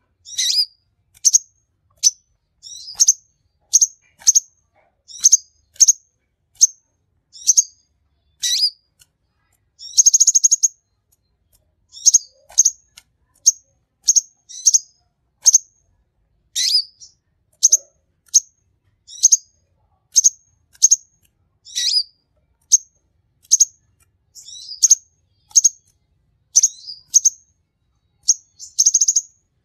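Konin sunbird singing energetically: a continuous run of short, sharp, high chirps at about one to two a second, broken twice by a brief buzzy trill.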